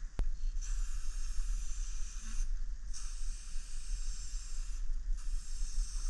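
Aerosol spray-paint can hissing in three long bursts with short pauses between them, with a sharp click just before the first burst, over a steady low rumble.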